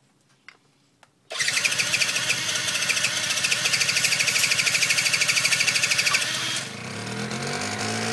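A small scooter engine being cranked over in fast even pulses for about five seconds, then catching and running unevenly at a lower level near the end. The engine will not keep running: it dies soon after it fires.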